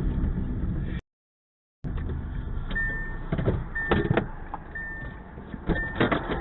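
Low vehicle rumble that cuts off abruptly, then a short high electronic beep repeating about once a second, four times, over quieter engine noise with several sharp knocks.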